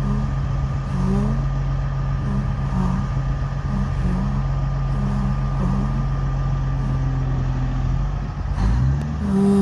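Diesel engine of heavy machinery running steadily, then revving up near the end and holding at a higher, louder pitch.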